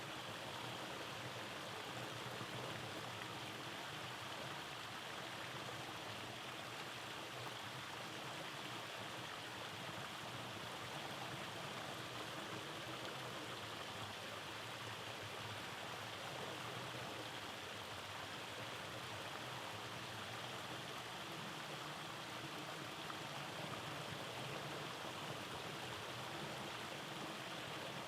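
Rainforest stream running over rocky cascades: a steady rush of flowing water.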